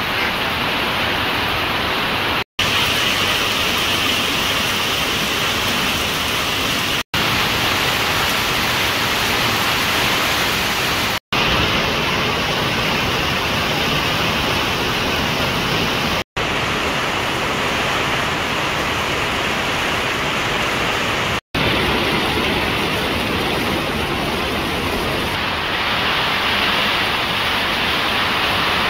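Heavy rain pouring down on foliage and a flooded yard, a dense steady hiss. It is broken five times by a split-second of silence.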